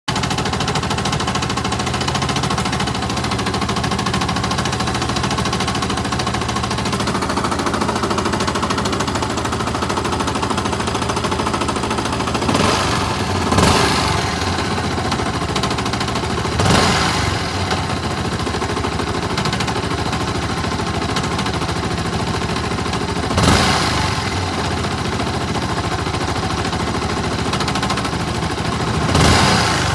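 Yamaha R15's single-cylinder four-stroke engine idling, with a few brief revs, and a strange noise from the engine that the owner wonders may be the connecting rod, the decompressor or the timing chain.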